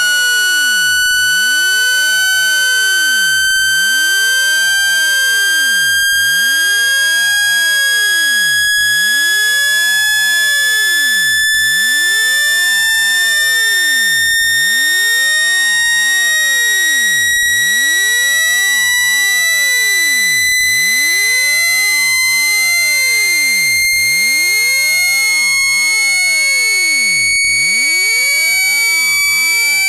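A continuous electronic test tone with buzzy overtones, gliding slowly and steadily upward in pitch, with a slight regular flutter in level every few seconds. It is a speaker-cleaning tone, played to shake dust out of a phone's speaker.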